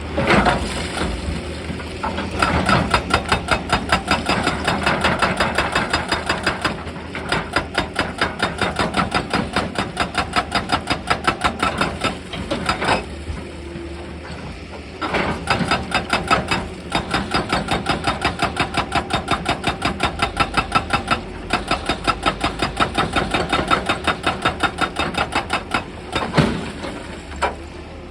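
Excavator's hydraulic breaker hammering rock: rapid, evenly spaced blows, several a second, in long bursts broken by short pauses, over the steady running of the machine's engine.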